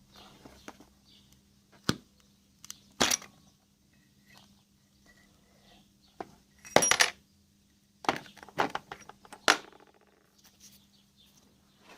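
Small metal parts and hand tools clinking and clicking while an air-suspension compressor's cylinder head is taken apart. There are a few separate sharp clinks, the loudest cluster about seven seconds in, then several more just after.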